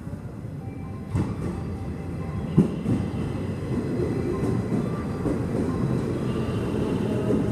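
Commuter train pulling into the station, its running noise growing steadily louder, with sharp wheel clacks about one and two and a half seconds in.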